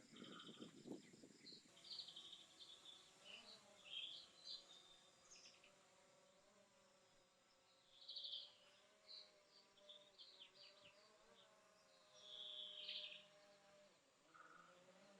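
Quiet forest ambience: birds chirping in short, repeated bursts over a faint, steady insect buzz.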